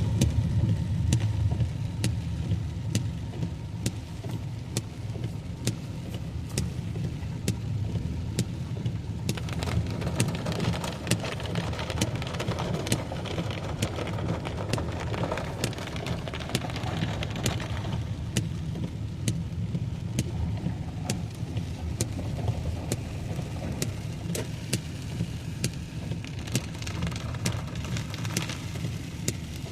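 Heavy rain drumming on a car's roof and windscreen, heard from inside the moving car over a steady engine and road rumble. A louder rush of water swells for several seconds in the middle.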